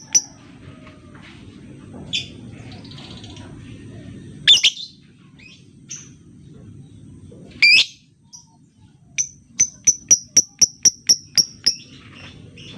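Lovebird calling: two loud harsh screeches a few seconds apart, then a fast run of sharp, high chirps at about four or five a second, the ticking call that keepers use as a lure for other lovebirds.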